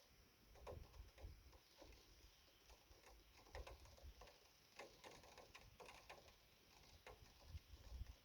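Faint rain: scattered, irregular drops ticking and pattering, with a few soft low thumps.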